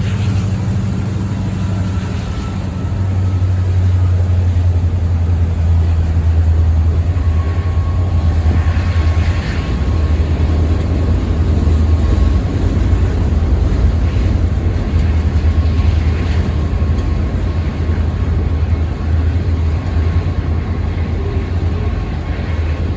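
Freight train rolling past at close range: a loud, steady, low rumble of wheels on the rails.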